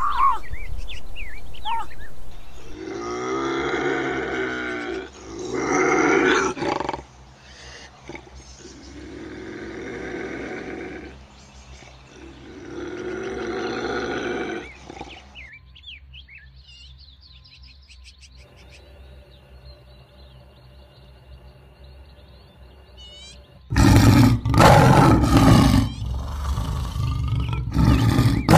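A few bird chirps, then a series of drawn-out wild cat calls every few seconds. After a quieter stretch, a lion roars and growls loudly near the end.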